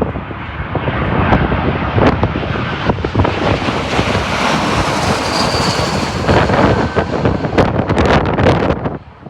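Jet airliner passing low overhead on its landing approach: a rushing engine noise that swells, peaks mid-way with a faint high whine, then fades. Gusty wind buffets the microphone throughout.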